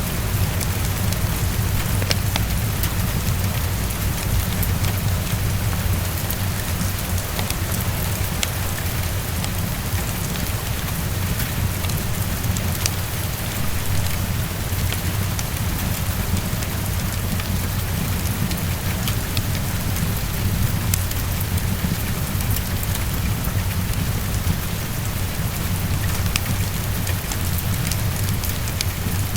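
Heavy rain falling steadily against a window, with a constant low rumble underneath and scattered sharp clicks through it.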